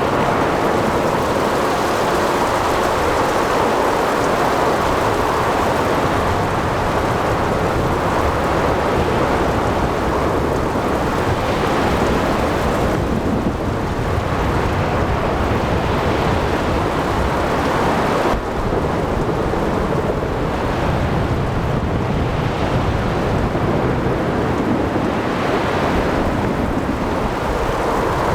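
Thunderstorm at sea: steady heavy rain and wind over waves breaking and surging, with thunder rumbling. The noise swells and eases a couple of times.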